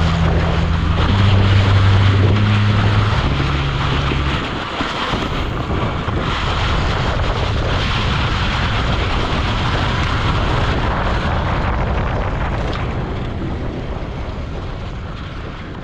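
Wind rushing over the camera microphone with the noise of an enduro motorcycle ride. In the first four seconds, low humming notes change pitch in steps; after that a steady rush carries on and fades away near the end.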